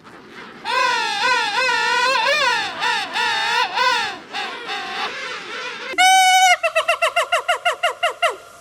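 Animal calls. A wavering series of high, looping calls comes first. After a short pause, one held call breaks into a rapid trembling run of about a dozen pulses that drops in pitch at the end.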